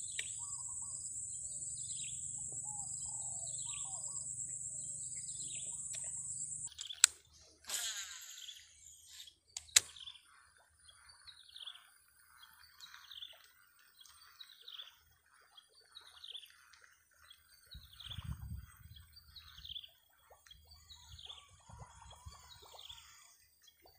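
A bird repeating a short falling chirp over and over, about every two-thirds of a second. For roughly the first quarter, a steady high insect drone runs underneath and then cuts off. Two sharp clicks stand out, at about 7 and 10 seconds in.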